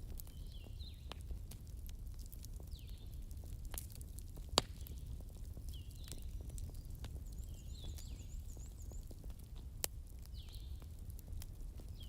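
Wood fire crackling, with irregular small snaps and two sharp pops about four and a half and ten seconds in, over a low rumble. A bird's short chirping call repeats every second or two.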